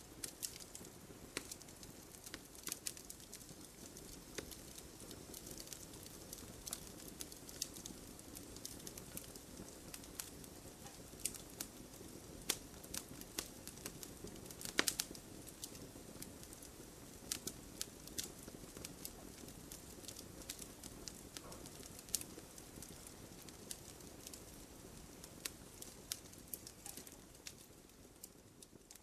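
Wood fire burning in a fireplace: a steady low rush of flame with frequent irregular crackles and sharp pops from the burning logs, one louder pop about halfway through. The fire sound fades out near the end.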